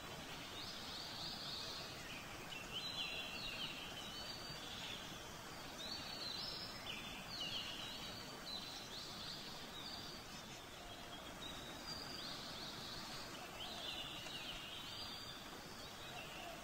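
Birds chirping repeatedly in short calls over a steady background hiss, like a nature ambience bed.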